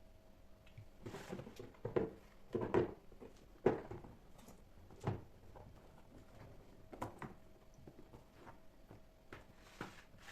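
Kitchen items being handled: a series of short knocks and thuds, about half a dozen in the first four seconds and a few scattered ones later.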